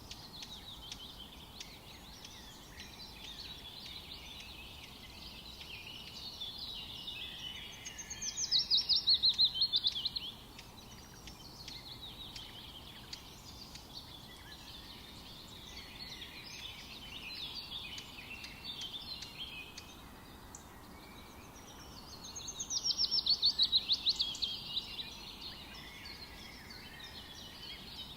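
Forest birdsong: several small birds chirping throughout, and twice a bird sings a loud, fast trill that falls in pitch and lasts about two seconds, once about a third of the way in and again near the end.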